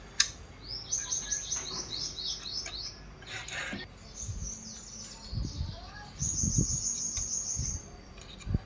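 A bird chirping in two runs of quick repeated high trills. There is a sharp click near the start, a short hiss in the middle and a few low thumps.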